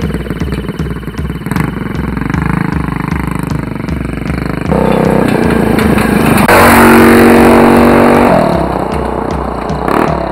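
Mini bike's Tillotson 225cc single-cylinder engine revving hard through its Super Pipe exhaust, building to its loudest just past the middle and then easing off. A boom-bap hip-hop beat plays underneath.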